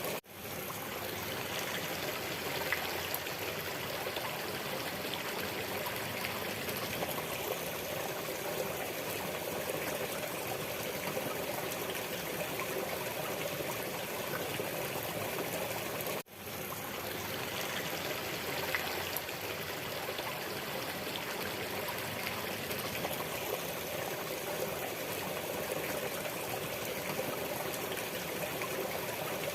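Waterfall water rushing steadily. The sound cuts out twice, just after the start and about halfway through, and each time fades back in within about half a second, where a looped recording restarts.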